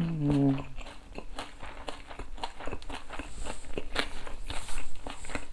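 Close-miked chewing of food with the mouth closed: many small wet clicks and crunches. A short hummed vocal sound at the very start.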